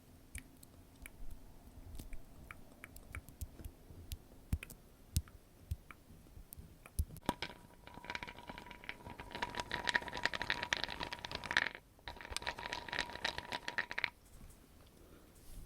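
Close-miked ASMR trigger sounds: scattered soft clicks, then about seven seconds of dense crackling and rubbing with a brief break midway, stopping sharply near the end.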